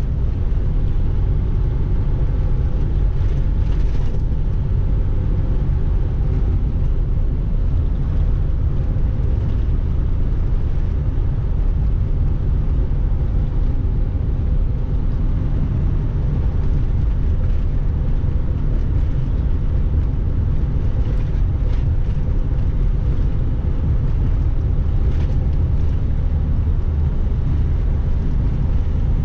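Loaded semi-truck's diesel engine and tyres on the highway, heard from inside the cab as a steady, unbroken low rumble.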